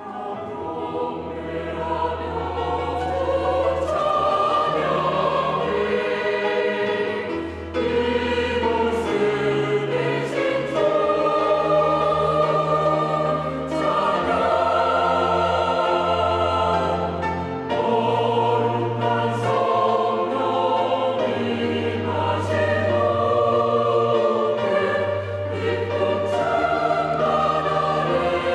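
Church choir singing a sacred anthem, several voices in harmony over sustained low accompanying notes.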